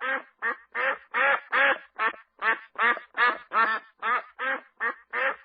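An animal calling in a fast, regular series of short pitched calls, about three a second, with no pause between them.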